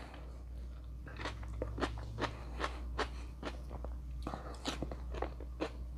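A person chewing a bite of steak kebab with bell pepper and onion, picked up close by a clip-on microphone: irregular small clicks and crunches, several a second, over a low steady hum.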